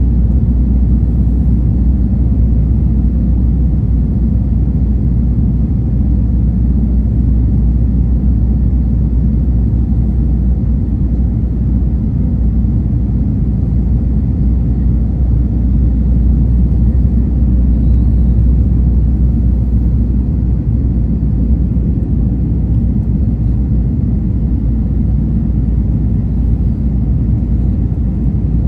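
Passenger airliner cabin noise: a steady, loud, low rumble of engines and airflow that holds even throughout, with a faint steady hum above it.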